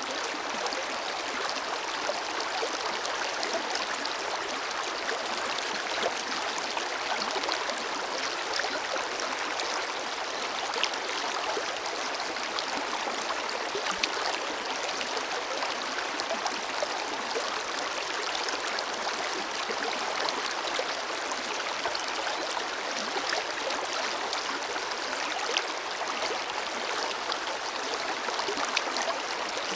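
Forest river flowing steadily over stones: a continuous rushing and babbling of water with small splashes scattered through it.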